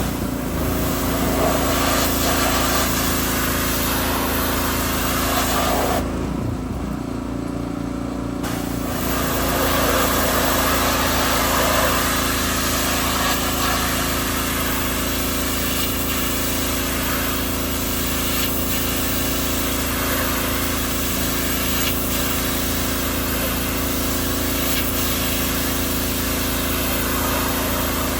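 Gas-engine pressure washer running steadily, with the hiss of its water spray. The spray cuts out briefly about six seconds in while the engine keeps running, then starts again.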